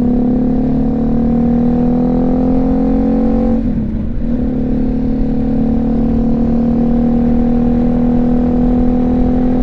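BMW G310GS single-cylinder engine running through a Remus aftermarket exhaust as the motorcycle is ridden, its note rising slowly. There is a short break in the note about three and a half seconds in, then it pulls steadily again. Wind rushes on the helmet microphone underneath.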